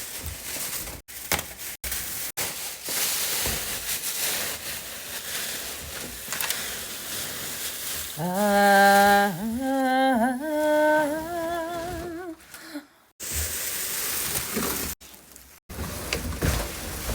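A woman humming a short wavering tune for about four seconds midway, loudest as it begins. Before and after it there is a steady noisy rustle of packaging being handled, broken by several brief dropouts in the sound.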